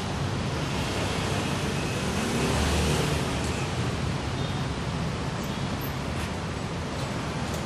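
Datsun Go+ car engine running steadily, swelling briefly louder about two and a half seconds in.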